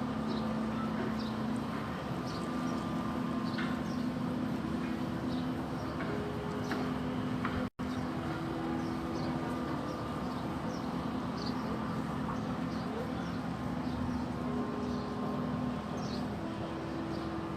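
Background ambience with no speech: a steady low hum with faint short high chirps recurring throughout. The sound cuts out completely for an instant about eight seconds in.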